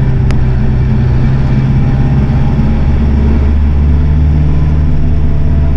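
Vehicle engine running steadily, heard from inside the closed cab, a low hum whose note shifts slightly a little past halfway.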